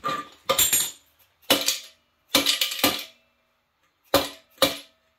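Hand tools working on the metal of a seized engine during disassembly: about seven short, rattling metallic strokes with pauses between, several coming in quick pairs.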